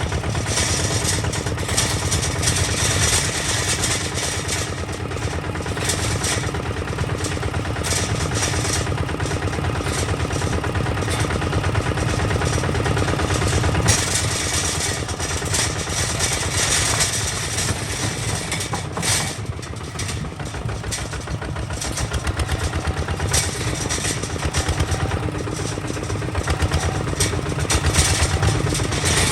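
Kubota ZT155 DI single-cylinder diesel engine of a two-wheel tractor running steadily with a fast, even chugging, easing slightly about twenty seconds in.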